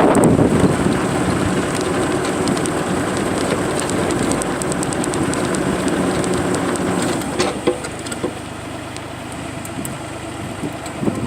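Excavator's diesel engine and hydraulics running steadily, with a few sharp clanks about seven and a half seconds in, after which the engine settles to a quieter level.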